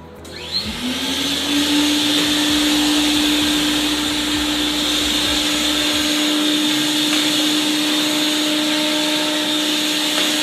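Flood-extraction vacuum machine's motor starting up: a whine climbing to speed over about a second, then running steadily with a loud rushing hiss.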